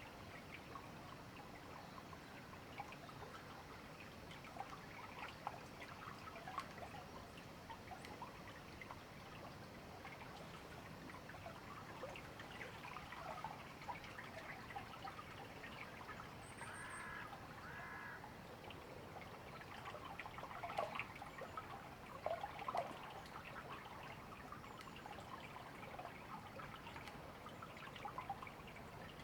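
A river flowing steadily over stones with a constant babble and trickle. About halfway through, a bird gives two short calls.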